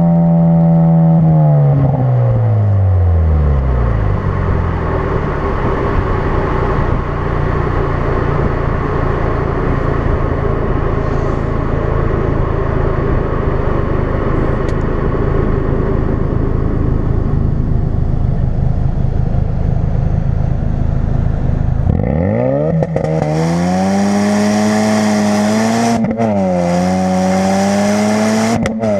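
Ford Focus RS's 2.3-litre turbocharged four-cylinder running through a custom-built exhaust. Revs fall away over the first few seconds and the engine settles into a low, steady drone. About 22 seconds in it accelerates hard, the revs sweeping up sharply, then climbing and dipping.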